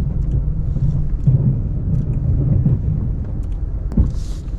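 Ram 1500 Classic plow truck's engine running with a steady low rumble while plowing snow, with one sharp knock near the end.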